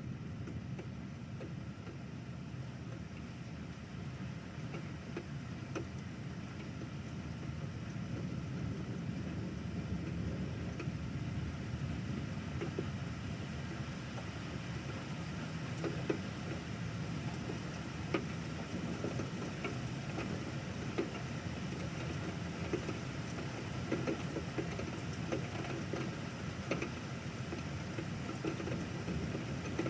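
Thunderstorm rain with a steady low rumble, and scattered sharp ticks of drops striking something nearby that come more often in the second half.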